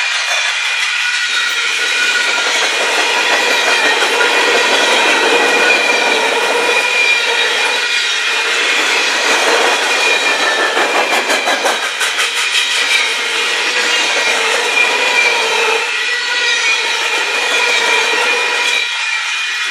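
Union Pacific freight cars rolling past: steel wheels on rail make a loud, steady rolling noise with several ringing tones over it. About halfway through there is a quick run of wheel clicks over rail joints.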